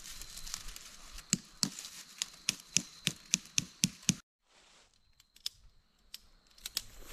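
A run of about nine sharp knocks, roughly three a second, that stops abruptly, followed by a few faint clicks.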